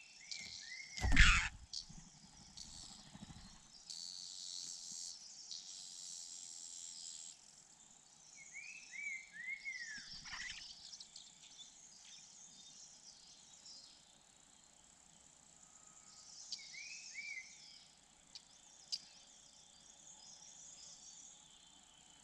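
A bird calling in short runs of three or four arched notes, repeated about every eight seconds, over a steady high insect hiss. A loud thump about a second in.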